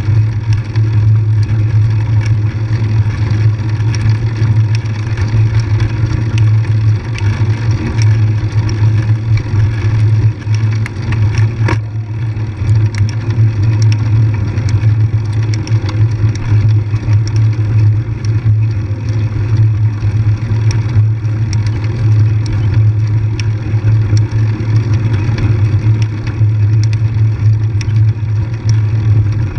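An engine running steadily at an even pitch while riding, with scattered ticks and rattles over it.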